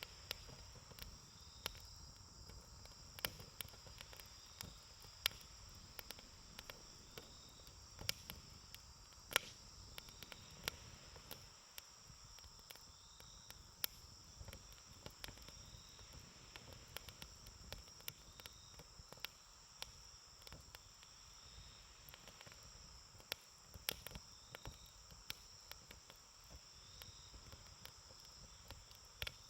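Wood campfire crackling, with scattered sharp pops at irregular intervals, over a steady high trilling of insects and a short chirp repeating about every two seconds.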